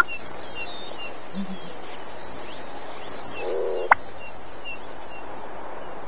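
Chorus of small birds and insects chirping over and over, with a bustard calling through it: a short rising note at the start, then a sharp pop about four seconds in.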